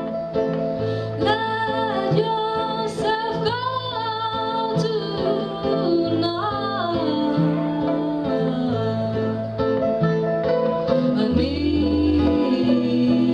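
Live band music: guitar and a steady bass line of held notes, with a voice singing phrases in the first half and briefly again in the middle.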